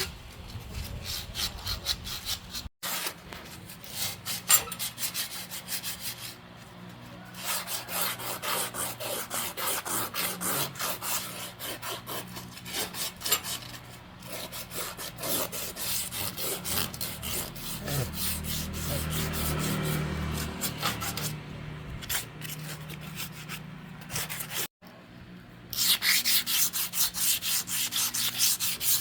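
Repeated abrasive strokes rubbing against a surface in a quick, steady rhythm, like hand sanding. The sound drops out abruptly twice and is louder near the end.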